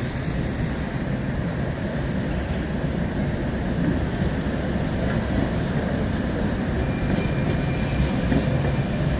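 Tram running on its rails, heard from inside the car: a steady rumble of wheels on track.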